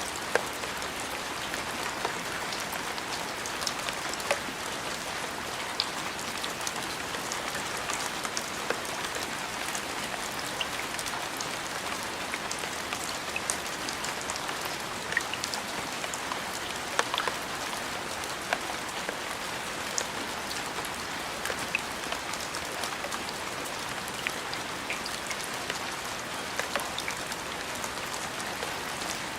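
Steady rain falling, an even hiss with many scattered sharp ticks of drops striking.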